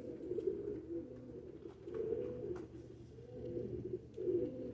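Homing pigeons cooing in repeated low, rolling phrases, several coos overlapping, with a few faint clicks.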